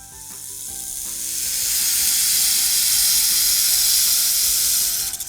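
Snake hissing: one long hiss that swells over the first two seconds, holds steady, then cuts off near the end.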